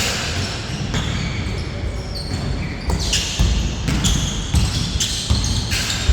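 Basketball bouncing on the court in a pickup game: irregular sharp thuds of the ball among players' movement.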